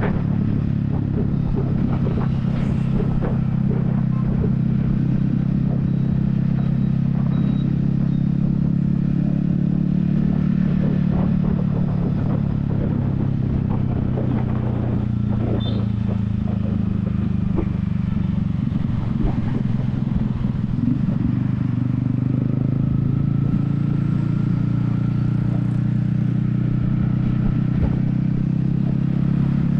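Yamaha XSR155's single-cylinder engine running steadily at cruising speed, heard close from a helmet-mounted camera, its pitch easing slightly about two-thirds of the way through and then picking up again. Scattered light clicks sound over the engine note.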